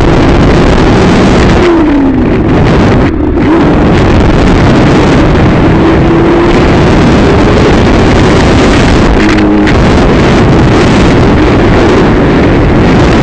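A motor vehicle's engine running on the move under heavy, steady wind rush on the microphone, its pitch falling about two seconds in and rising again later, with a brief drop in the noise just after three seconds.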